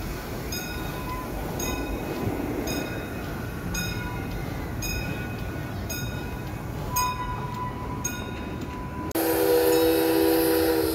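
Park railroad passenger cars rolling past on the track, with a steady rumble and a light click about once a second. About nine seconds in the sound switches abruptly to a steam locomotive's whistle, louder, sounding a steady chord of several tones.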